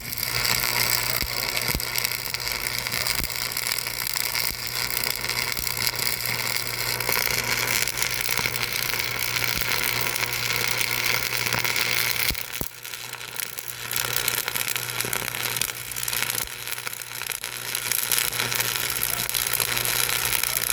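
Steady machine noise with a constant low hum, easing off briefly about twelve seconds in.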